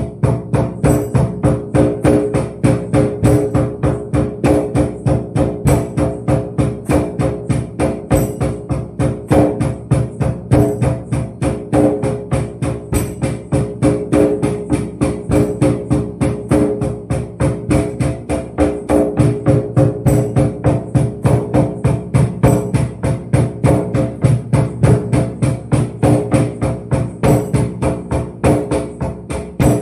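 Hand percussion playing a steady beat of about three strokes a second: a low drum thud with a jingle on each stroke, like a tambourine or jingled frame drum, over sustained ringing tones.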